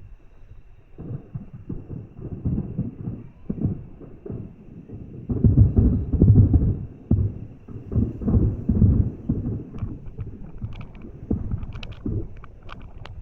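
Aerial fireworks bursting in a rapid volley of deep booms that run together into a rumble, heaviest about five to seven seconds in, with short sharp crackles near the end.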